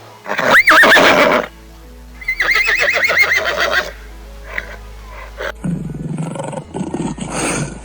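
Horse whinnying: a short high neigh, then a long quavering whinny. From about five and a half seconds in, a deep rough roar of another animal takes over.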